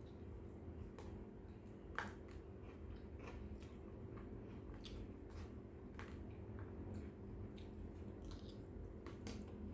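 Close-up eating sounds: chewing with scattered small clicks and smacks, over a steady low hum.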